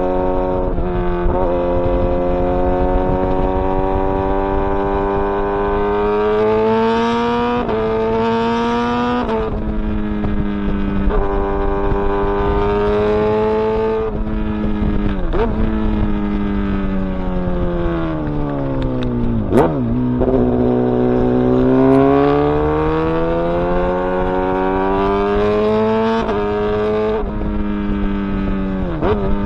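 Kawasaki ZX-10R inline-four sportbike engine being ridden hard through the gears. Its pitch climbs steadily and drops sharply at each upshift, several times in a row. About two-thirds of the way through it winds down as the bike slows, then climbs again.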